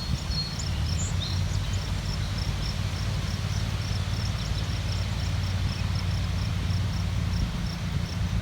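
Wind blowing through grass, with a steady low rumble, while an insect chirps in a regular high-pitched pulse about three times a second.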